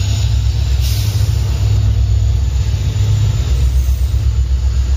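Passenger coaches of a departing express train rolling past on the track, a steady loud low rumble.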